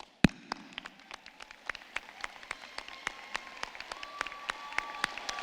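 Audience applauding, starting as scattered claps and building into steady applause. One loud thump comes just after the start, and a held high tone joins about three seconds in.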